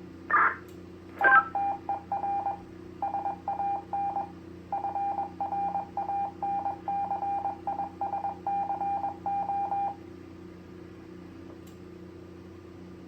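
GMRS repeater's station identification sent in Morse code over the radio: a single steady beep tone keyed on and off in dots and dashes for about eight seconds, over a steady low hum of radio background.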